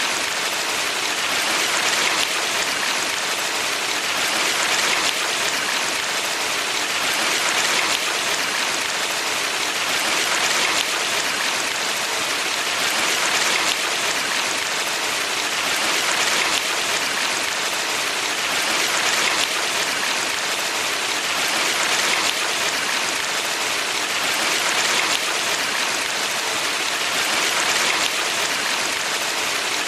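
Stream water rushing over rocks in a valley: a steady, dense hiss with gentle swells in loudness every few seconds.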